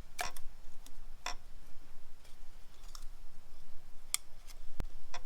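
Scattered sharp metallic clicks and taps of hand tools on engine parts as a spun, heat-damaged connecting-rod bearing is worked loose, with a duller knock near the end.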